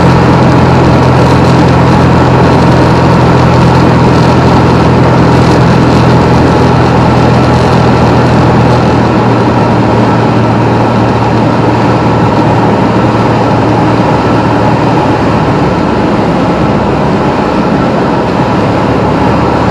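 Piper Comanche 250's six-cylinder Lycoming engine and propeller droning steadily, heard from inside the cockpit in flight. The low engine tones weaken about halfway through.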